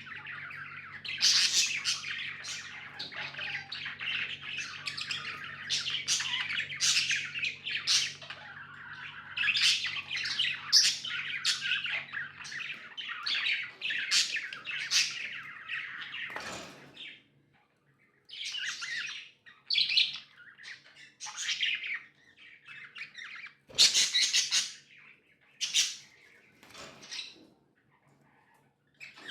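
Pet budgerigars chirping and warbling in a dense, continuous chatter, then, from about halfway on, in sparser separate chirps and squawks with short pauses between.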